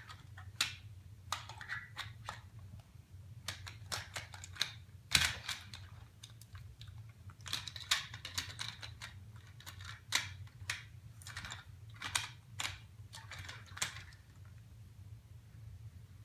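Toy train pieces and track being handled and knocked together: irregular light clicks and clacks, a few sharper knocks among them.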